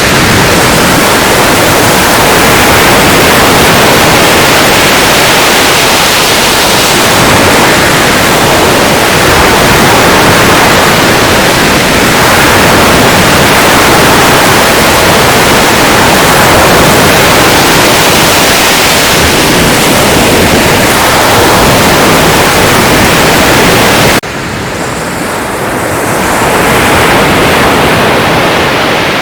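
Sea surf: a loud, dense, steady wash of breaking waves that cuts abruptly to a quieter, duller stretch about 24 seconds in, where a single wave swells up and falls away.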